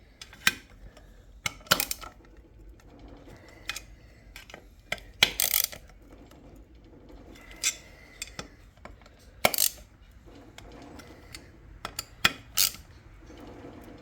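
Metal hand tools and chainsaw engine parts clicking and clinking at irregular intervals during crankcase assembly, with a louder clatter about five seconds in and another sharp clink near the middle.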